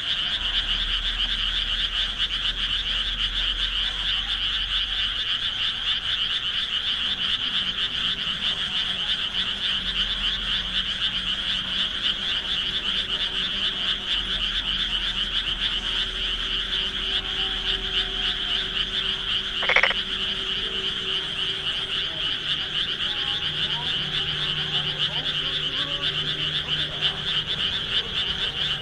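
Dense, steady chorus of many frogs calling together. A single short, sharp sound stands out over it about twenty seconds in.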